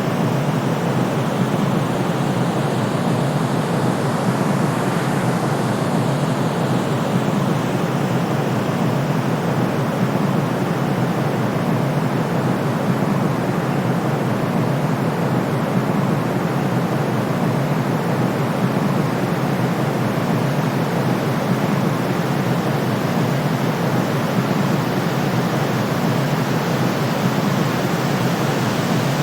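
Steady white noise for sleep: an even, unbroken hiss, weighted toward the deeper end.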